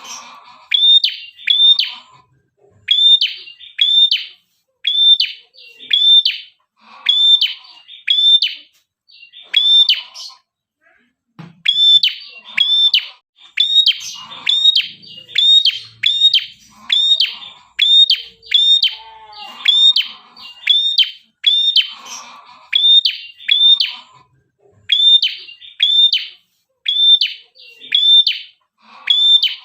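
A red-headed prenjak (prinia-type songbird) singing continuously: a fast, steady series of sharp high chirps in quick groups of two or three, with short buzzy lower notes mixed in between some groups.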